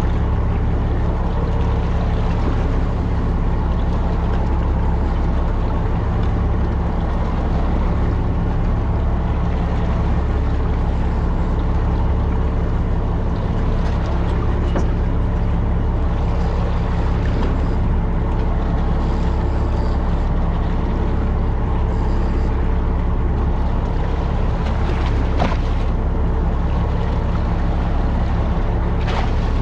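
A fishing boat's engine running steadily, a constant low hum with water and hull noise over it, and a couple of faint knocks near the end.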